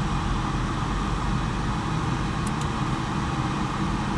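Off-road vehicle's engine running steadily without revving, heard from inside the cabin.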